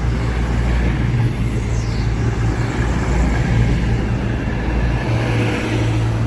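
Class 221 Super Voyager diesel-electric train drawing into the platform, its underfloor diesel engines running with a steady low drone. A short high squeal falls in pitch about two seconds in.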